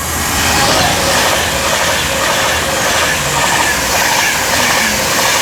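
Avanti West Coast Class 390 Pendolino electric train passing through the station, a loud steady rush of wheels on rail and air.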